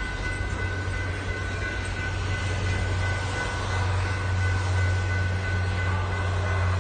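Lit boxcars of the Canadian Pacific Holiday Train rolling past: a steady rumble of wheels on rail with a low hum that swells a little about halfway through, and a steady high tone throughout.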